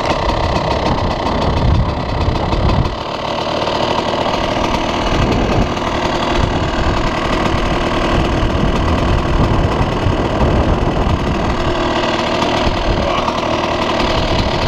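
1997 KTM enduro motorcycle's engine idling steadily, dipping briefly about three seconds in.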